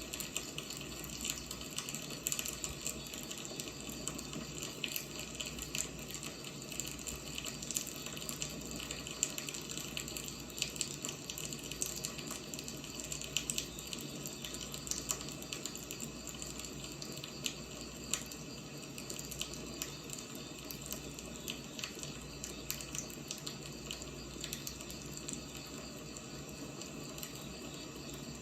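Burning firewood: a steady hiss with many small crackles and pops scattered irregularly throughout.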